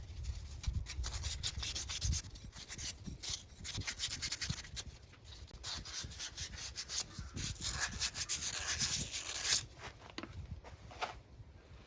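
Hand work on wood-lathe headstock parts: a dense run of quick scrapes, rubs and clicks that stops sharply near the end.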